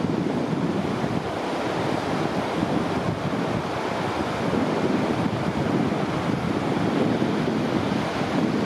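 Ocean surf washing in, heard as a continuous rushing noise, with wind buffeting the microphone.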